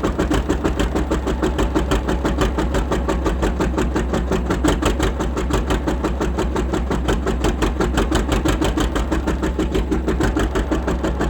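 John Deere R tractor engine running steadily with a fast, even beat.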